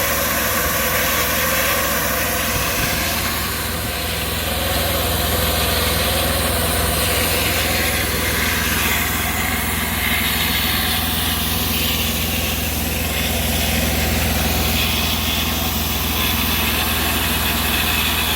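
Fiber-optic cable blowing equipment running steadily: an engine-like low hum under an even hiss, without letting up.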